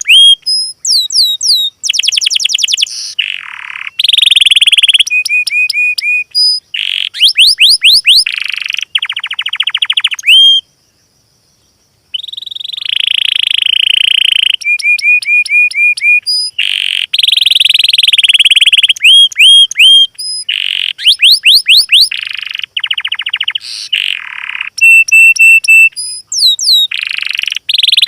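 Loud, high-pitched songbird song in fast, varied phrases: rapid trills, quick rising and falling sweeps and runs of repeated whistled notes. The song breaks off for a second and a half about eleven seconds in.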